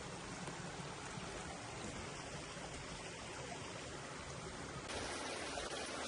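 Steady rushing water noise, getting a little brighter about five seconds in.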